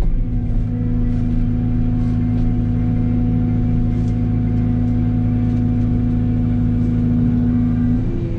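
Mini excavator's diesel engine running at a steady speed, with a few faint clicks.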